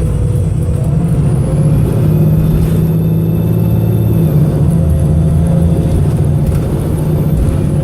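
VDL SB200 bus's diesel engine running hard under load, with a heavy, uneven low drone from the engine's misfire. A faint high whine rises about a second and a half in and fades again after a few seconds.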